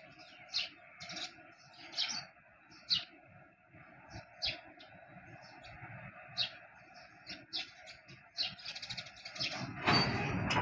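Small birds chirping in short, repeated high chirps about once a second over a steady background hum. A louder rush of noise comes in near the end.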